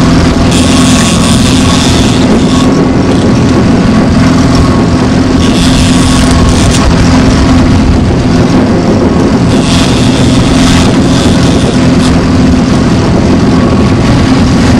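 Boat motor running steadily and loudly, with a higher hiss swelling three times, about every four to five seconds.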